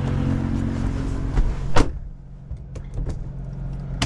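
Jeep Gladiator's power window running up and closing with a sharp thump a little under two seconds in, shutting out the outside noise. The engine idles steadily underneath, with a few light clicks afterwards.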